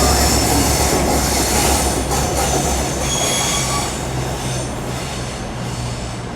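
A train moving along the platform, its low rumble fading steadily, with the thin high squeal of its wheels on the rails coming and going.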